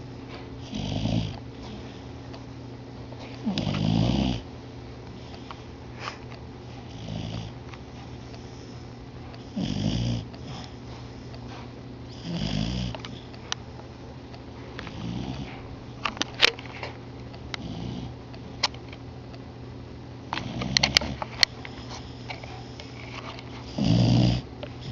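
Beagle snoring in its sleep, one snore about every three seconds, some louder than others. A few sharp clicks come in around the middle and again later.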